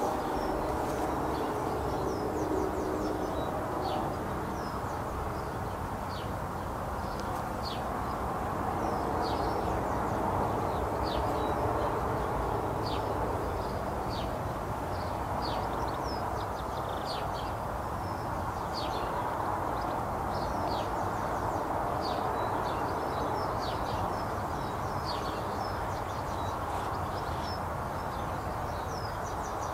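Birds chirping and singing, many short high calls in quick succession, over a steady low background noise.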